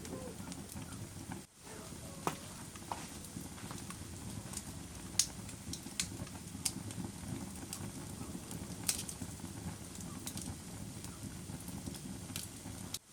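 Wood fire burning in a fireplace: a steady low rush of flames with scattered sharp crackles and pops, a handful of them louder. The sound cuts out for an instant about a second and a half in.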